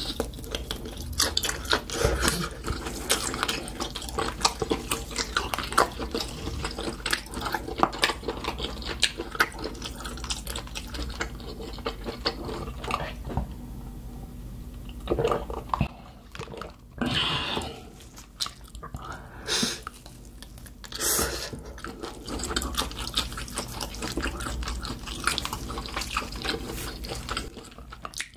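Close-up wet chewing of grilled octopus: a dense run of sticky smacking clicks. In the second half, several louder rushes of noise about a second long break in.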